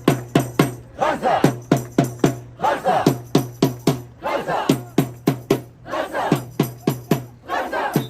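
Hand drums beating a fast, steady rhythm, about three to four strokes a second, with a crowd of marchers shouting a chant between the beats.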